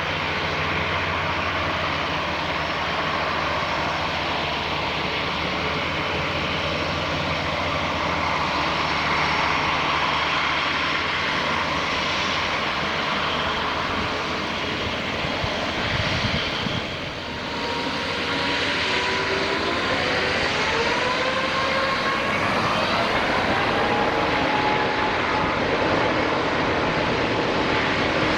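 Airbus A350-900 jet engines (Rolls-Royce Trent XWB) at takeoff power, giving loud, steady jet noise. After a brief dip about seventeen seconds in, several whining tones climb in pitch over a few seconds.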